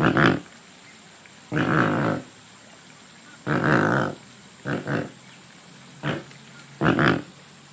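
Pelican calling: six short, harsh, hoarse calls with pauses between them, two of them briefer than the rest.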